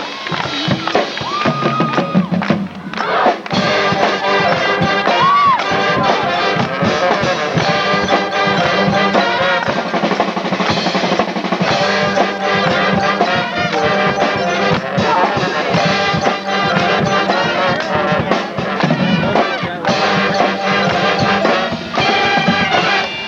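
High school marching band playing, brass instruments over drums.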